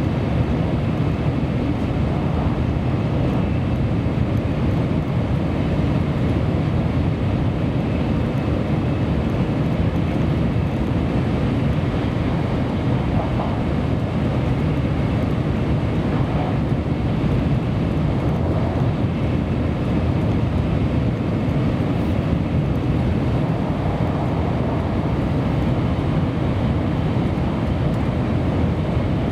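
Kyushu Shinkansen train running at speed, heard from inside the passenger car: a steady, low rumble and rush of wheels, track and air that does not change.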